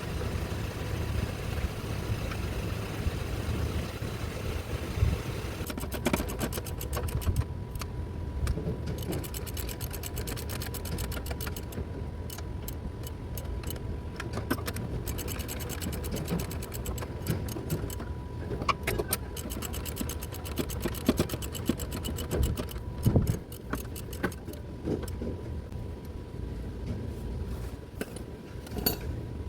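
Ratchet handle turning a socket on the transmission support mounting bolts, clicking rapidly in long runs with occasional metal knocks, starting about six seconds in over a steady low hum.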